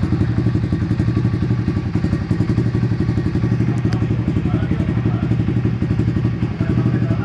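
Yakuza 125cc pit bike's single-cylinder four-stroke engine running steadily at an even speed, with no revving.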